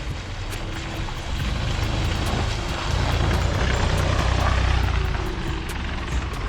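Vehicle engine and road rumble heard from inside a car driving over a rough, unpaved off-road track, with light rattling clicks throughout. The rumble swells louder about three seconds in, then eases off.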